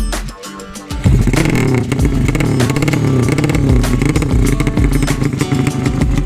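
A 200 cc sleep-engine drag-bike motorcycle engine comes in suddenly about a second in and runs loud, its pitch wavering up and down as the throttle is worked, with music underneath.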